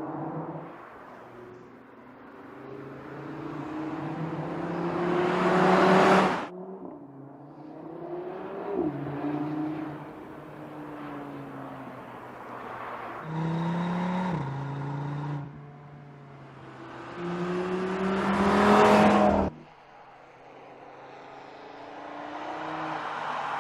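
Turbocharged 2.5-litre inline-five engine of a 2022 Audi RS3 accelerating, its note climbing in pitch and growing louder. It peaks and cuts off suddenly about six seconds in and again near nineteen seconds, with shorter climbs and drops in pitch between.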